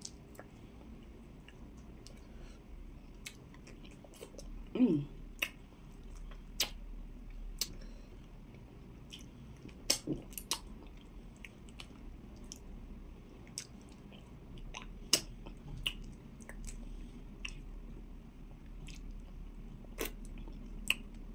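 Close-up chewing and lip smacking as a mouthful of amala with okra soup is eaten, with many scattered sharp mouth clicks. A short falling hum comes about five seconds in.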